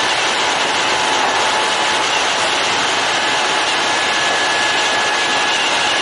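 Kintetsu electric commuter train running along the line: a steady rush of wheel-on-rail and running noise with faint, even whining tones over it.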